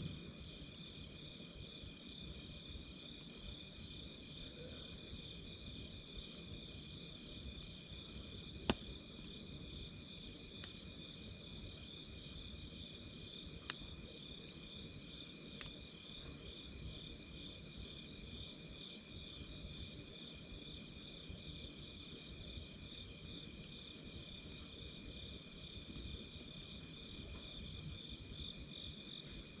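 Insects chirping in a steady pulsing trill, with a few sharp, isolated crackles of a wood fire, the loudest about nine seconds in.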